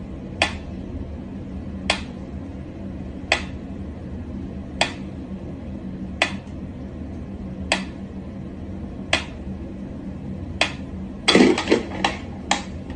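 Mechanical pendulum metronome ticking slowly, one sharp tick about every second and a half. Near the end a louder rustling clatter breaks in, followed by two quicker knocks.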